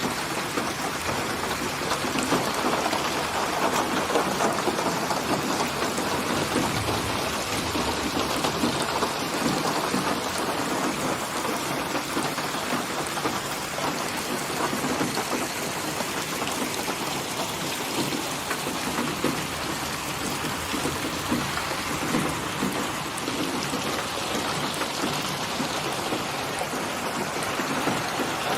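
Steady heavy rain, many drops pattering on a hard surface in a dense, even hiss.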